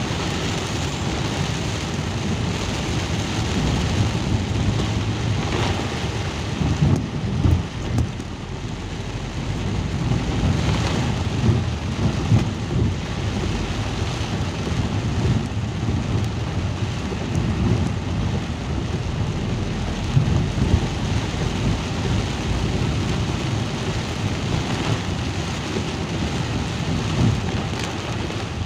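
Steady rain falling, with a loud low rumble that rises and falls.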